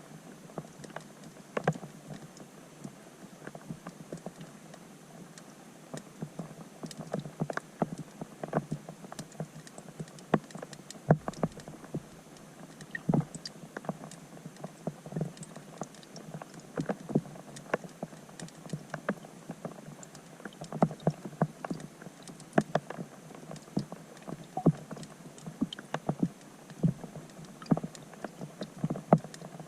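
Rain falling on a pond, heard from underwater: irregular drops ticking and plinking on the surface, several a second, over a steady hiss.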